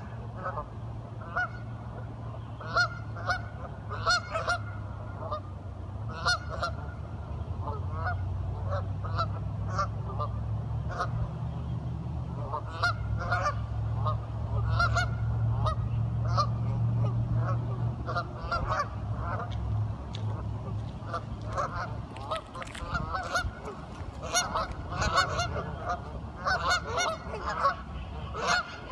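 A group of ducks calling, with many short, overlapping calls repeated all the way through. A steady low hum sits underneath, strongest in the middle.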